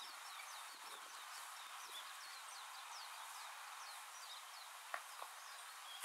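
Small birds calling: a quick run of short, high chirps, each sliding downward, over a faint steady hiss, thinning out after about four seconds. Two soft taps follow about five seconds in.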